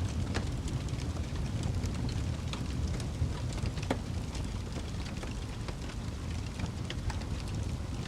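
Wood fire in a fireplace crackling, with scattered sharp pops over a steady low rumble of the flames.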